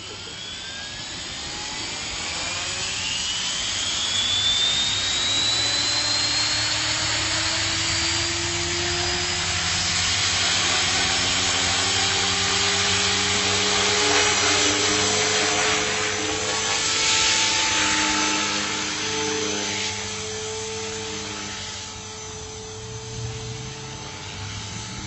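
Electric RC helicopter's motor and rotors spooling up with a whine that rises in pitch over the first few seconds, growing louder. The helicopter then runs at flight speed in a steady whine, its pitch shifting up and down as it flies.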